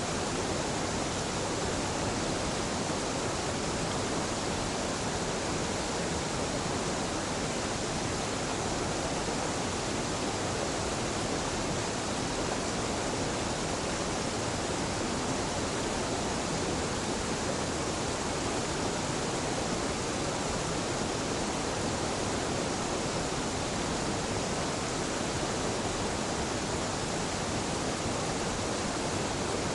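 Waterfall and river water pouring and rushing in a steady, unbroken rush with no other sounds.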